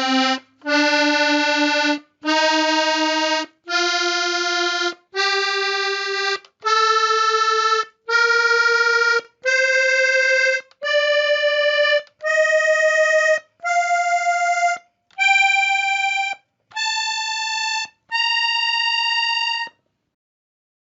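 Diatonic button accordion playing a major scale one held note at a time, each note a little over a second long with a short break between, climbing steadily through about two octaves and stopping near the end.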